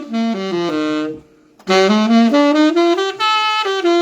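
Saxophone playing two short melodic runs of quick stepwise notes, split by a brief pause about a second in. It is played as an example of a flat, slightly metallic tone.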